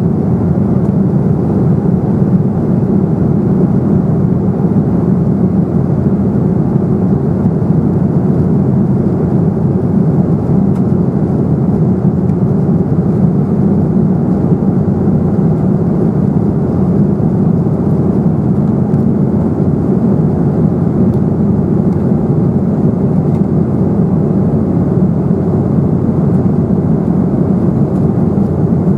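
Steady cabin noise inside an Embraer 195 airliner in flight: a constant deep rush of airflow and General Electric CF34-10E turbofan engine noise.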